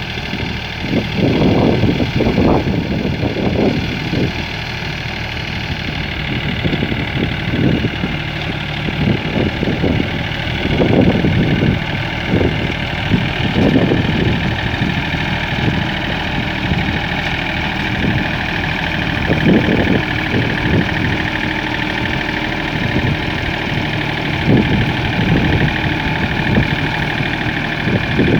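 Tractor engine running continuously while working dry ground, with a steady high whine and irregular low surges and thumps throughout.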